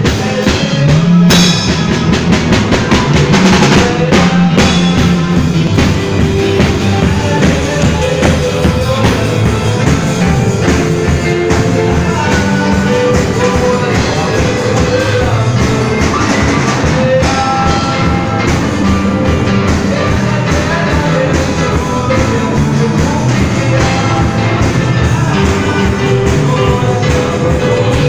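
A band playing loud, steady music with a driving drum beat and bass.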